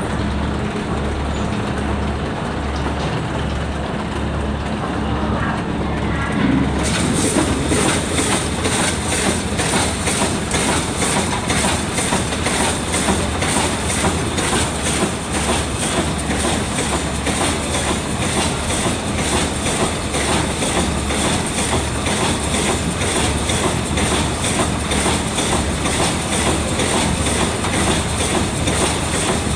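Vertical form-fill-seal packing machine running, a steady rhythmic mechanical clatter as it cycles through its bagging strokes. About seven seconds in, a higher hiss joins it and the clatter stays even from there on.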